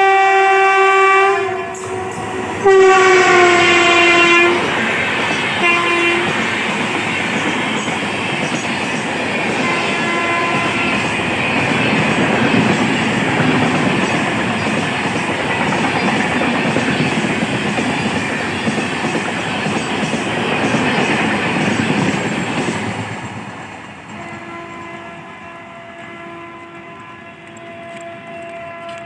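Indian Railways Amritsar Shatabdi Express running through a station at speed: the locomotive's horn sounds three times, the second blast longer and dropping in pitch as it passes. Then the coaches rush by with wheel clickety-clack for about fifteen seconds and fade out. Near the end, another train's horn sounds faintly in the distance.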